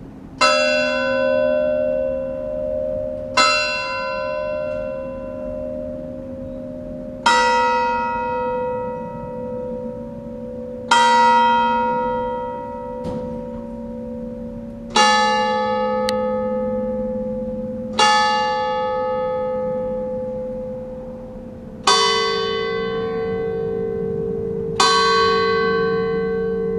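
Bronze church bells tolling a slow funeral toll: eight single strokes about three to four seconds apart, each left to ring on, the pitch stepping downward from stroke to stroke.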